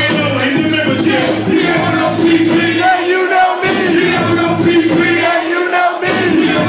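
Loud live hip-hop music with a heavy bass line, a crowd of voices shouting and singing along over it.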